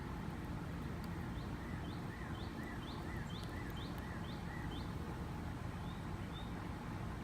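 A small bird calling: a run of about eight quick, repeated chirps, roughly three a second, starting about a second in, then two fainter ones near the end. Under it is a steady low rumble.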